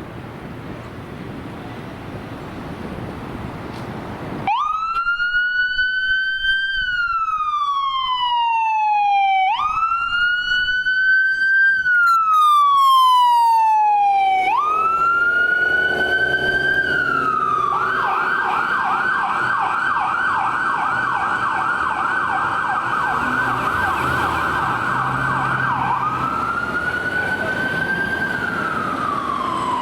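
Fire apparatus siren responding to a call: vehicle rumble builds, then about four seconds in a siren starts wailing, rising and falling slowly three times. It switches to a fast yelp for about eight seconds, then goes back to a slow wail near the end.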